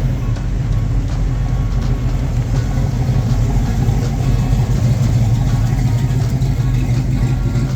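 Classic car engine idling and running at low speed as the car crawls out, a steady deep sound throughout.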